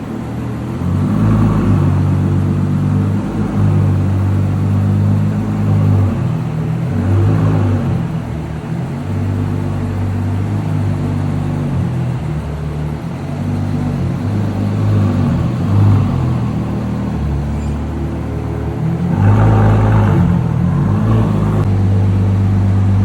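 Ferrari F12berlinetta's V12 engine through a Novitec exhaust, driving with the revs rising and falling through the gears. The hardest pull comes about three-quarters of the way through.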